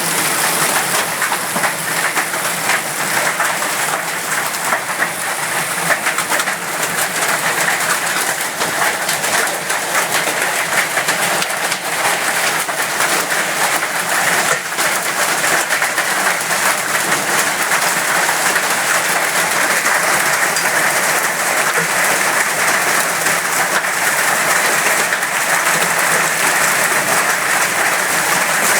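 Hailstorm: hailstones pelting down in a loud, dense, unbroken clatter of countless small hits.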